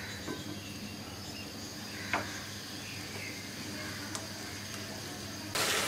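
Onion-paste masala frying in oil and ghee in a wok, a steady fine sizzle while it is stirred, with a few soft clicks. About five and a half seconds in the sizzling becomes suddenly louder.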